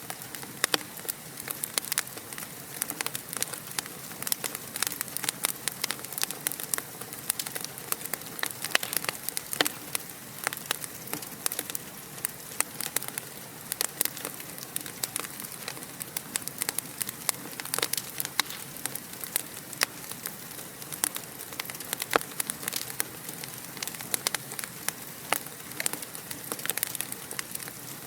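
Fire in a fireplace crackling: many quick, irregular pops and snaps over a steady hiss.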